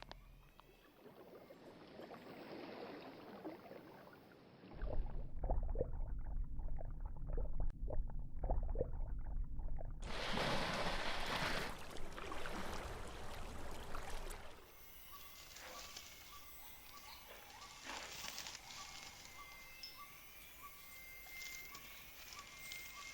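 Rainforest sounds in several cuts: a low rumble with scattered knocks and rustling, then a few seconds of loud, even rustling noise, then quieter forest ambience with animal calls, a chirp repeating about twice a second and a steady high-pitched tone.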